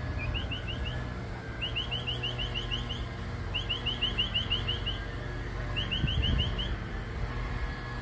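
A small bird calling in four runs of quick, rising chirps, several notes a second, over a steady low rumble.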